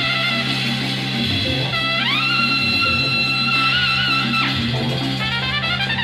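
Instrumental late-1960s jazz-rock band music with a steady bass line. About two seconds in, a horn scoops up into one long held note with a slight waver, lasting about two and a half seconds.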